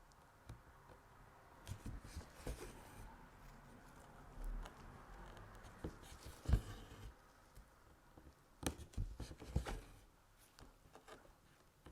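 Crewel wool and needle being drawn through embroidery fabric while stitching: faint scratchy rustles and small clicks, with the sharpest click about halfway through and a few more a couple of seconds later.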